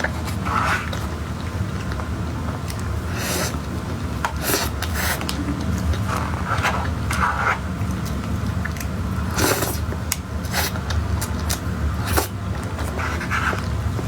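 Close-miked eating: irregular bites, soft chewing and utensil scrapes, over a steady low hum.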